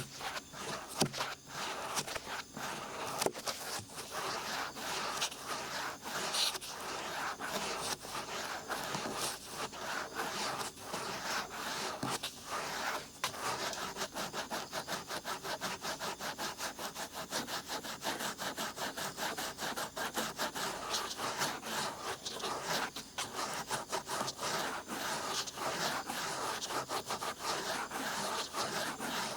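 Large ear pick scratching and scraping in an ear for ASMR ear-picking, in quick repeated strokes that settle into an even rhythm about halfway through.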